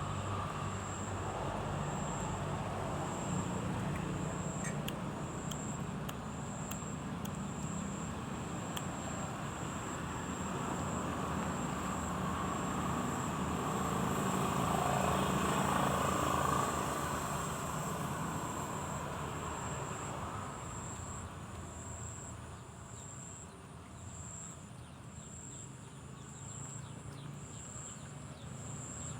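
Insect chirping in steady high-pitched pulses about once a second, over a low background rumble that swells to a peak about halfway through and then fades away.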